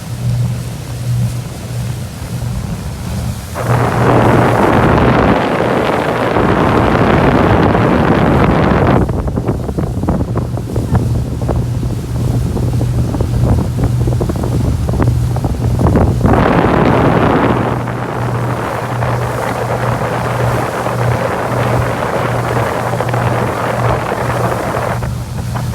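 A boat's engine hums steadily and low under wind buffeting the microphone and water rushing past. The rushing swells loud twice, for about five seconds from a few seconds in and again for most of the second half.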